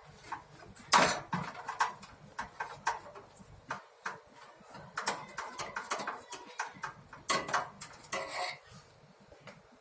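Scattered sharp metallic clicks and taps of tools and small parts on a gas water heater's water valve as it is being taken apart, the loudest knock about a second in.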